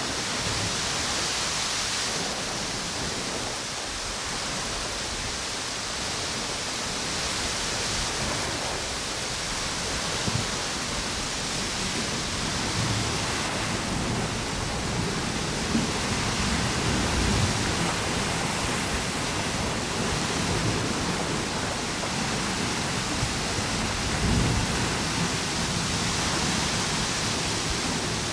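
Strong wind and ocean surf on a beach, a steady rushing that swells and eases with the gusts. Deeper surges come now and then in the second half.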